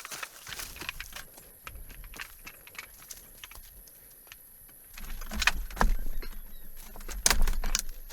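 Irregular clicks, taps and knocks, loudest and busiest in the last three seconds, over a low rumble that comes in about five seconds in.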